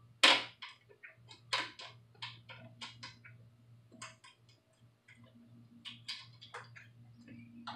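Clicks and knocks of parts and hand tools being handled while a window regulator is fitted inside a car door: one sharp knock about a quarter second in is the loudest, followed by a string of lighter irregular clicks over a faint steady hum.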